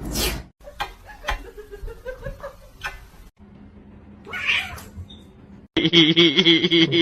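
Cats meowing across several short clips that cut off abruptly, ending in a long, steady yowl that starts near the end.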